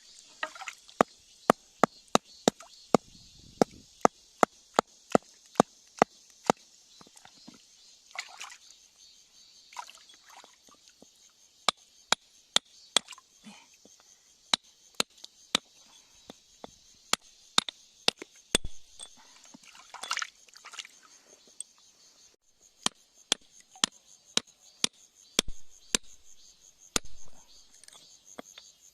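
A hand tool tapping on rock: sharp, evenly spaced strikes, about two a second, in several runs with short pauses. A steady high insect buzz runs underneath.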